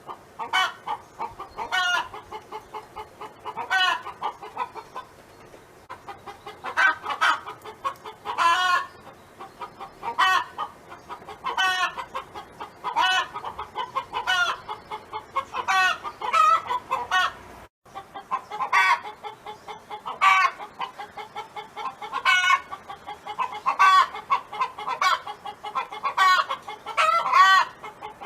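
Domestic hen clucking and cackling, a short call repeating every second or so, with a brief break about two-thirds of the way through.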